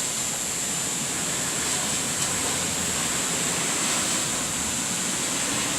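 Rain falling steadily, an even rushing hiss with no thunder.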